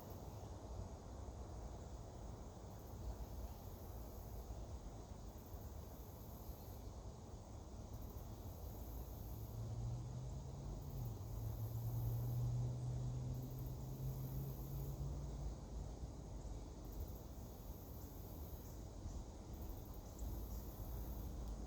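Insects chirping in pulses, a very high buzz coming and going every second or two over a low outdoor rumble. A low steady hum swells in about halfway through and fades a few seconds later.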